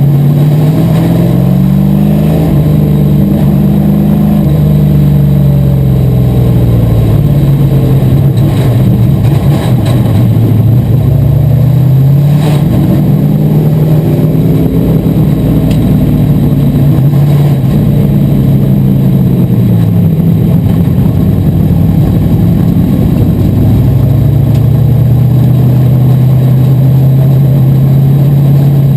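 Asphalt modified race car engine at racing speed, loud throughout. Its pitch climbs as it accelerates, holds, then drops as it lifts off, over and over in a lap-like cycle.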